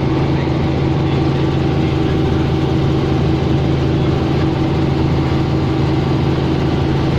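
Helicopter in flight: a loud, steady engine and rotor drone with unchanging low tones.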